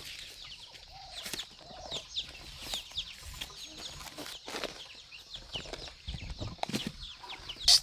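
Chickens clucking, with many short high peeps throughout. A sharp knock comes near the end.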